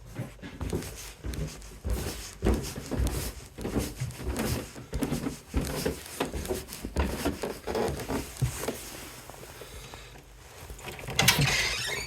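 Irregular bumps and knocks, several a second, with a short rush of hiss about eleven seconds in.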